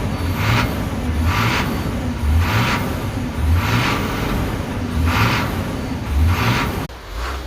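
School bus diesel engine running after a cold start and surging, its revs rising and falling in a regular pulse about once a second.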